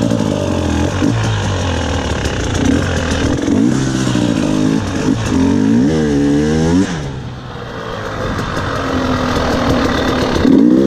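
KTM 300 XC-W two-stroke enduro bike engine being ridden, its revs rising and falling with the throttle. About seven seconds in the revs drop off and it runs quieter, then it builds again near the end.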